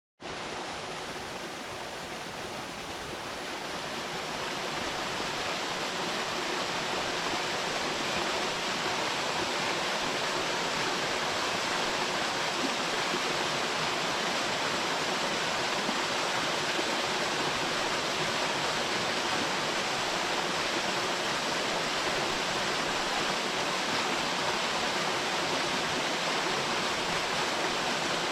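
Waterfall rushing steadily into its plunge pool, fading in over the first few seconds.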